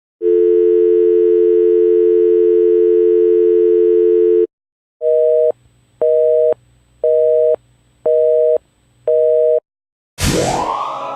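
Telephone dial tone held steady for about four seconds, then cut off and followed by a busy signal: five short beeps, one a second. About ten seconds in, a loud new effect starts suddenly with a rising sweep.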